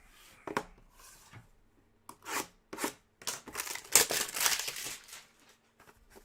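Trading card packaging being torn open and handled by hand. A few short rips and rustles come first, then a denser stretch of tearing and crinkling from about three to five seconds in.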